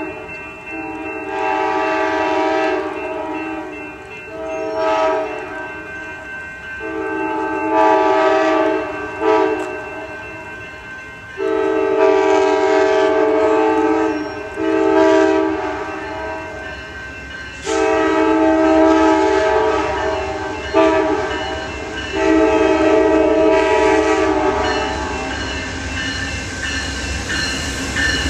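Diesel locomotive's multi-chime air horn sounding long blasts again and again, several in close pairs, as a train runs through street trackage. The rumble of the passing train builds near the end.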